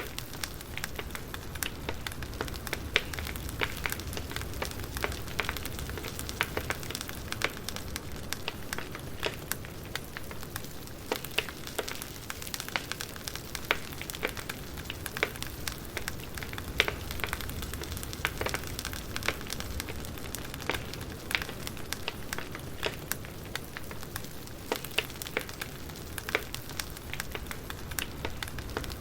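Wood fire crackling: a steady hiss with many sharp, irregular pops and snaps.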